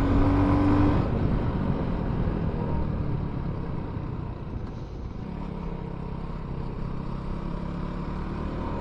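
Benelli Leoncino 250's single-cylinder engine running on the move, easing off over the first few seconds, then holding steadier and picking up slightly near the end.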